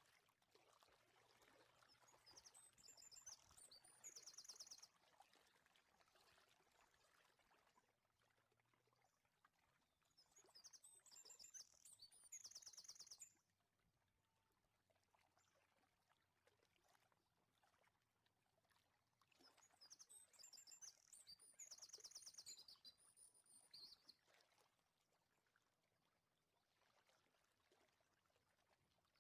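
Faint bird chirping and fast high trills, coming in three short bouts about ten seconds apart over a quiet background.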